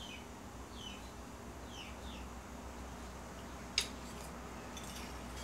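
Quiet room with a few faint, short falling chirps of a small bird in the first two seconds or so, and one sharp click about four seconds in from the spoon touching the plate.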